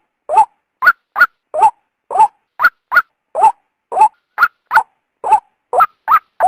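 Female white-breasted waterhen calling: short, loud notes repeated about twice a second, alternating a higher note with a lower upward-sliding one. This is the call used as a lure to draw male waterhens out.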